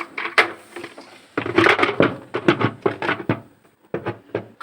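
Washing machine parts knocking and clicking as they are handled and fitted back together, with a dense run of quick clatters around the middle.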